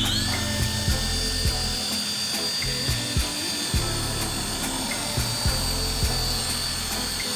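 Small remote-control toy helicopter's electric motor spinning up with a quick rising whine, then holding a steady high-pitched whine, over background music with a regular beat.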